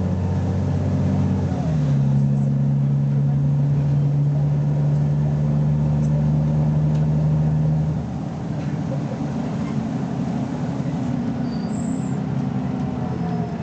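BMC Belde 220-SLF city bus engine pulling under load. About two seconds in, its note jumps up in pitch as in a kickdown, then holds steady until it falls away and quietens about eight seconds in.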